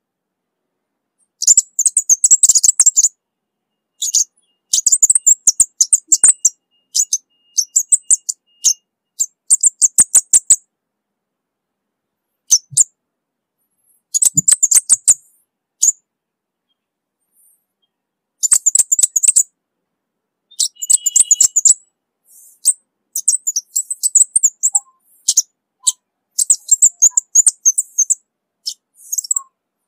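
Orange-bellied flowerpecker singing: bursts of rapid, very high-pitched ticking chips, each one to two seconds long, repeated with short pauses between.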